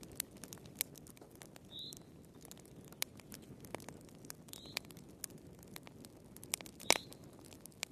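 Wood fire crackling in a fireplace: irregular sharp pops and snaps over a soft low rumble, with the loudest pop about seven seconds in.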